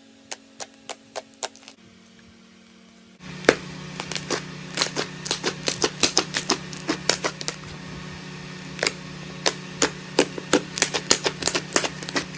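Crunchy slime being pressed and squished, giving sharp crackling pops. A few pops come about a third of a second apart at first; then, about three seconds in, a denser run of louder crackles begins over a steady low hum.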